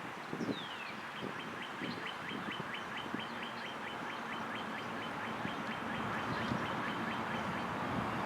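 A bird calling: two high whistled notes that fall in pitch, then a fast, even trill of short high notes lasting several seconds, over a steady rushing noise that slowly grows louder.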